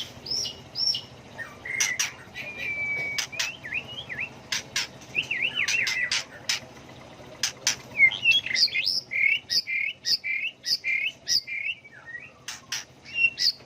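White-rumped shama singing a varied song: short whistled phrases repeated several times and then switched to a new pattern, mixed with sharp clicks.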